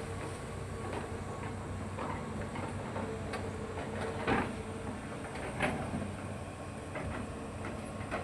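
Hitachi hydraulic excavator running steadily with a held whine, broken by several sharp knocks or clanks, the loudest about four seconds in and again just over a second later.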